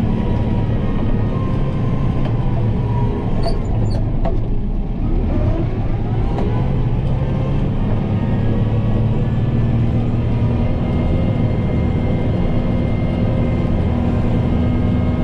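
Kubota M7060 tractor's four-cylinder turbo diesel engine running steadily under load while moving snow, with a few sharp clicks about four seconds in.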